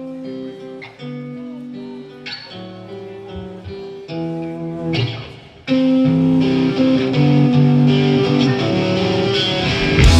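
Live rock band's guitar opening a song: a picked melodic guitar line, then a little past halfway the sound jumps much louder and fuller as more guitar comes in.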